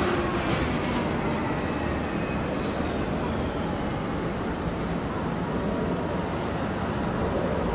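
Tram on street track moving past: wheel clicks over the rails right at the start, a faint whine falling in pitch over the next few seconds, then a steady street-traffic rumble.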